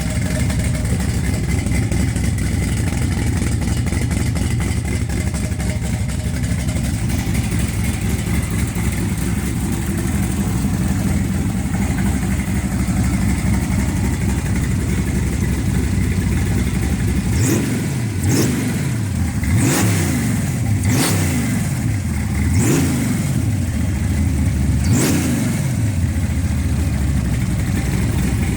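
Truck engine idling steadily, then revved in about six quick throttle blips, each rising and falling in pitch, over a few seconds past the middle, before it settles back to idle.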